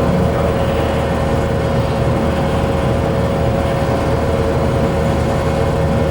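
Bowling alley room tone: a steady rumble of hall noise with a constant hum running through it, and no distinct ball or pin impacts.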